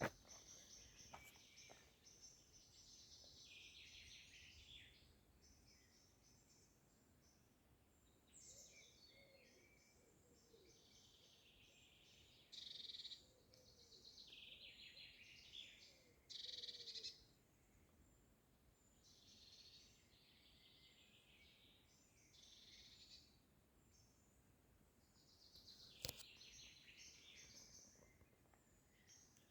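Birds singing faintly, a string of high trills and calls a few seconds apart, two of them louder near the middle. There is a single sharp click near the end.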